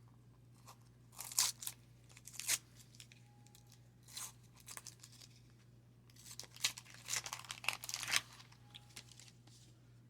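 Wax-paper wrapper of a baseball card pack crinkling and tearing in short, irregular bursts as the pack is ripped open and handled, with a denser flurry of crinkling a little past the middle.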